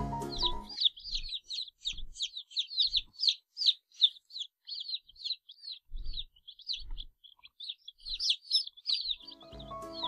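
Domestic chicken chick peeping: a quick run of short, high peeps, several each second, thinning out for a while in the middle before picking up again.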